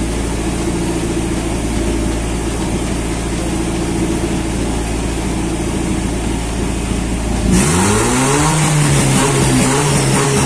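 Turbocharged 4E-FTE four-cylinder held on its two-step launch rev limiter, set at about 3,000 rpm. It runs as a steady, rapid, stuttering rumble. About seven and a half seconds in, the note changes abruptly as the revs shift and settle into a smoother steady running note.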